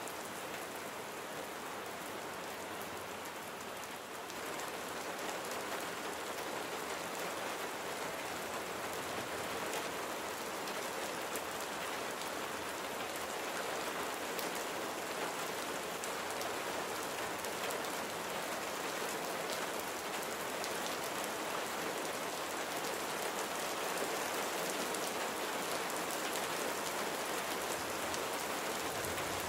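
Steady rain falling on a surface, a dense continuous patter of drops that grows slightly louder about four seconds in.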